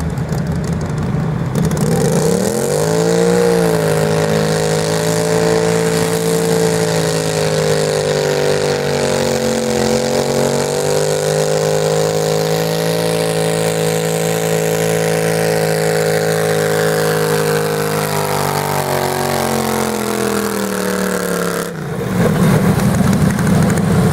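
Garden tractor engine revving up and held at high revs under load through a pull, then cut off sharply, leaving a lower engine rumble.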